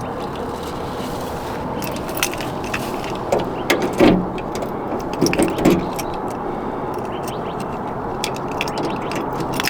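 Light metallic clicks and rattles as a pick is worked through a hole drilled in an old pickup's door to trip the latch, the door poppers no longer working. The clicks cluster between about two and six seconds in, over a steady background noise.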